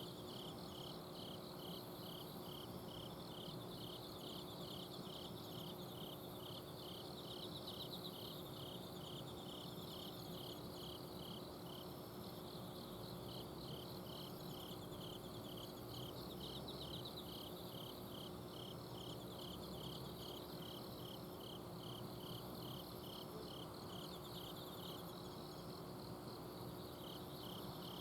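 A night chorus of autumn insects. One insect repeats short, even chirps about twice a second, pausing twice, over other higher trilling insect songs. An air conditioner's outdoor unit hums steadily underneath.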